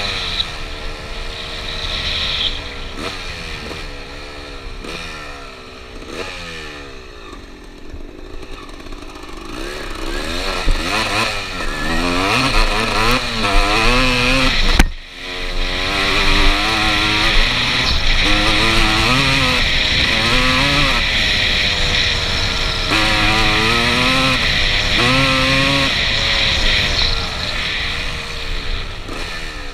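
1996 Suzuki RM250 single-cylinder two-stroke dirt bike engine under way, its pitch repeatedly climbing as it revs and dropping back at gear changes. It runs softer for the first third, then pulls hard and loud from about ten seconds in, with a brief cut in the sound around the middle.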